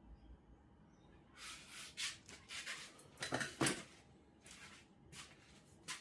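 Rummaging: scattered rustles, light knocks and clicks of objects being handled and moved around, with the busiest stretch a little past the middle.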